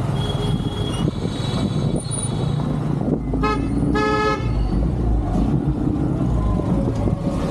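A vehicle horn toots twice in quick succession, a short beep then a slightly longer one, over steady road and traffic noise.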